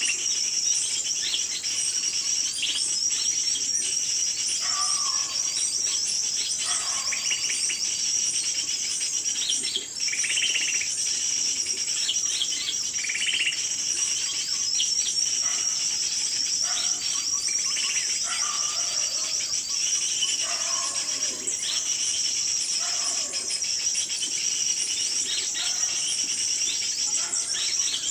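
Small songbirds chirping and calling again and again, short notes overlapping one another, over a continuous high, fast trilling buzz.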